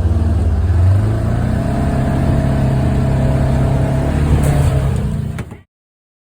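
Side-by-side UTV engine running under way, its pitch rising about a second in and then holding steady. The sound cuts off suddenly near the end.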